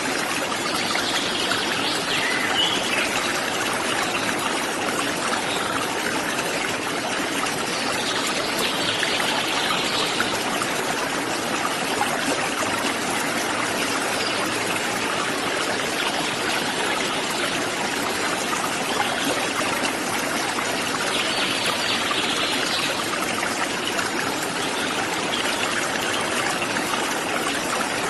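Small waterfall or stream running, a steady, even rush of flowing water; a fainter higher sound swells and fades a few times over it.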